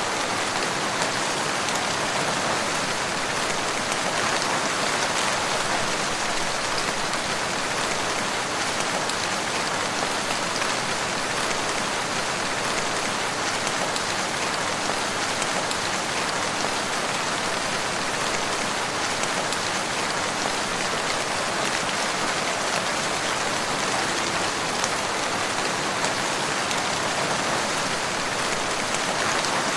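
Steady rain falling, an even, unbroken hiss with occasional faint ticks.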